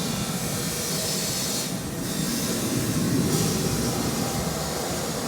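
Jet aircraft flying overhead during an aerobatic display: a steady rushing jet-engine noise that swells about three seconds in.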